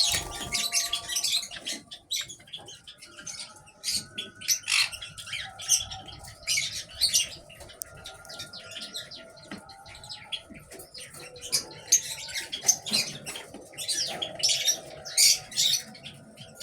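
Grey Java sparrows chirping, giving short high chips again and again, often several in quick runs.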